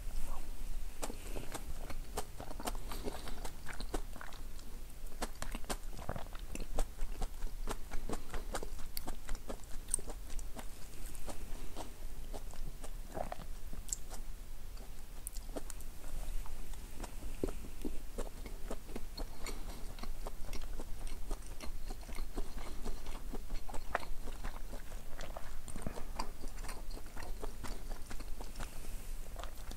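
Close-miked chewing and biting of okonomiyaki and sushi, a continuous run of irregular small wet mouth clicks with no speech.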